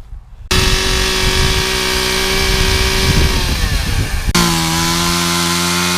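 Chainsaw running hard, cutting a tree trunk; about three seconds in its pitch sags as the chain loads up in the wood. It then switches abruptly to a steady, lower-pitched run.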